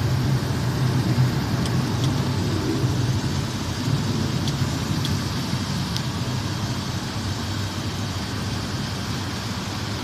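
Steady rumble of a Boeing 737's jet engines during the climb after takeoff.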